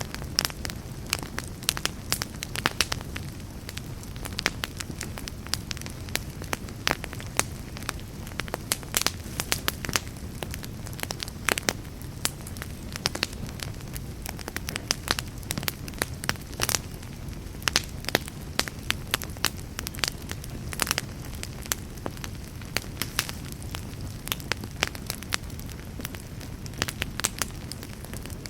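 Fire burning in a fireplace: frequent, irregular sharp crackles and pops over a steady low rumble of flames.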